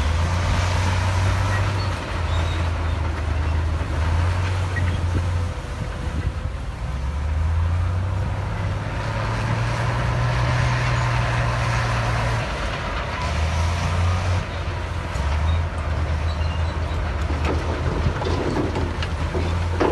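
Heavy diesel earthmoving machine engine running under changing load, its low drone rising and falling in pitch every few seconds, with a broad mechanical rumble above it.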